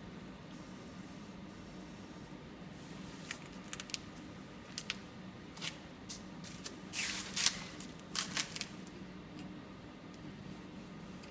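Bench work on a radiator being repaired: scattered light clicks and taps of tools, with a few short hissing bursts about seven and eight seconds in, over a low steady hum.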